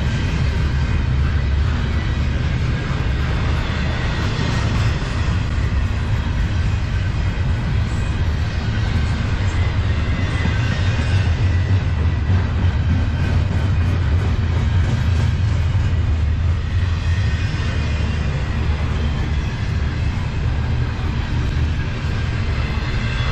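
Double-stack intermodal freight train's well cars rolling past, a steady low rumble of steel wheels on the rails.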